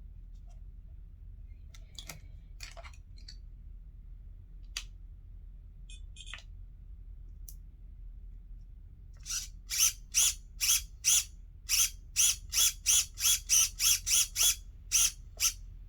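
A 9 g micro steering servo in a 1/14 RC car whirring in short bursts, about fifteen in quick succession, as the steering is swung back and forth through the new rack-and-pinion on test. A few faint clicks come before it.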